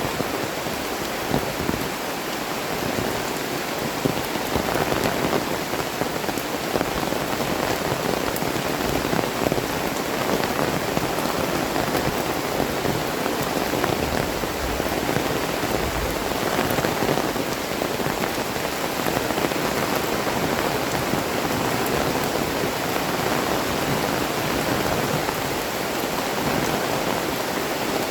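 Heavy tropical rain falling steadily, an even dense hiss of a downpour with many small drop ticks and no change in strength.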